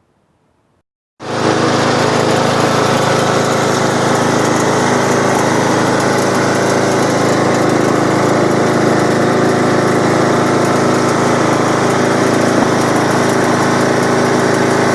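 2003 Sears lawn tractor's engine running steadily at a constant speed, loud; it cuts in abruptly about a second in and cuts off abruptly at the end.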